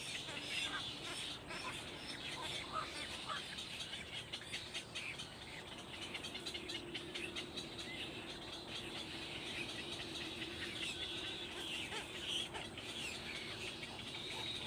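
Birds chirping: many short, high chirps, with a faint low steady hum from about six seconds in.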